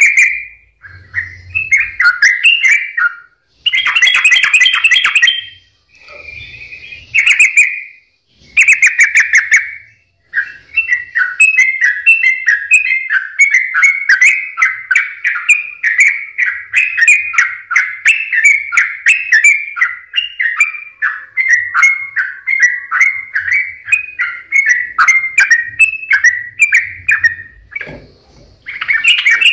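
Yellow-vented bulbul (trucukan) singing: short bubbly phrases with pauses for the first ten seconds, then a long unbroken run of rapid chattering notes that breaks off briefly near the end before resuming.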